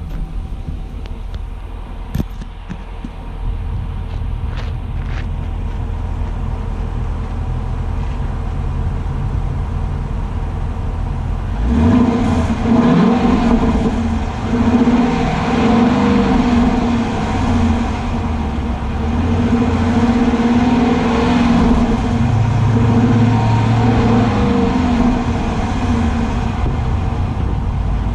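2021 Dodge Durango R/T's 5.7-litre Hemi V8 heard at the exhaust, idling steadily, then revved repeatedly from about twelve seconds in, the pitch rising and falling with each blip.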